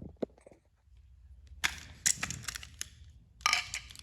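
Plastic toy train engine being handled: scattered small clicks and crackling rustles as it is picked over and its battery compartment checked.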